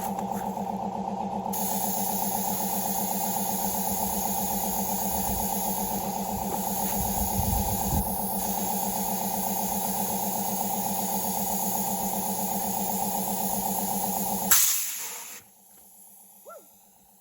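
A steady engine hum runs under the hiss of compressed air rushing into a truck tire. About fourteen and a half seconds in there is a sharp bang with a burst of air as the tire bead seats on the rim, and the engine hum cuts off right after.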